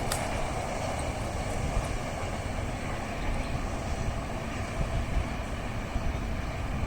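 A train passing on the line at a level crossing, a steady rumble and rush of wheels on rail.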